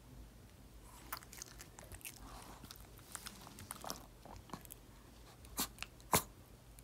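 Crunchy chewing and biting close by, a series of short irregular crunches with two sharper, louder ones near the end.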